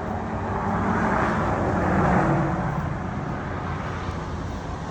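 A car driving past, growing louder to about two seconds in and then fading away.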